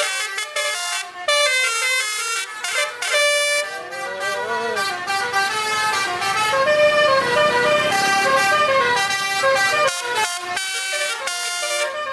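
Truck basuri (telolet) multi-tone horn playing a quick melody, its horn notes stepping up and down one after another, with a brief pitch glide about four seconds in. A rougher noise sits beneath the horns through the middle.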